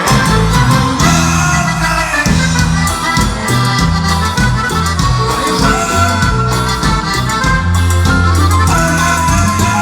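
Instrumental passage of Latin American cuarteto music played live by a band, with accordion leading the melody over a steady bass and percussion beat.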